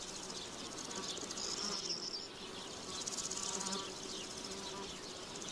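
Insects buzzing steadily: a low droning hum with a fast, high-pitched rattling over it.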